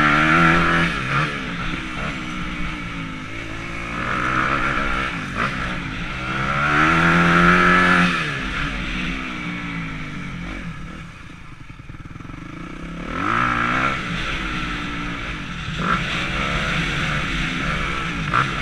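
Motocross dirt bike engine revving up and falling off again and again, as in hard acceleration and shifting around a track. The loudest pulls come near the start, about seven seconds in and about thirteen seconds in, with a lull in between, and a couple of sharp knocks near the end.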